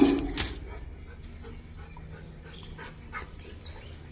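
A Rottweiler panting, with a louder short sound right at the start.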